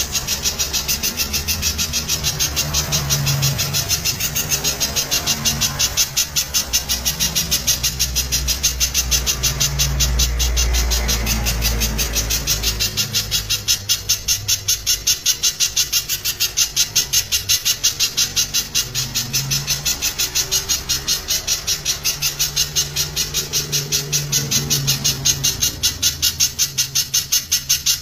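Spiderhunter (pijantung) calling in a rapid, unbroken run of sharp, high notes, several a second: the dense 'tembakan' call used as a training recording for caged birds. A low rumble runs underneath.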